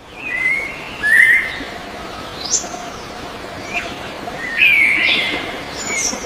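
Birds chirping: a string of short whistled calls, some sweeping sharply upward, with the loudest burst of calls about halfway through, over a steady background hiss.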